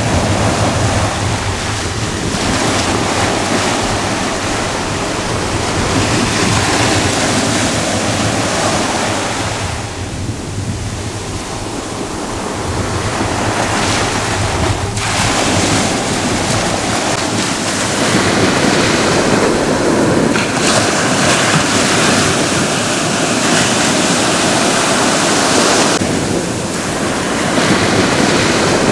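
Ocean surf: waves breaking and washing up the shore in a continuous rush, swelling and easing every few seconds, with a softer lull about a third of the way through.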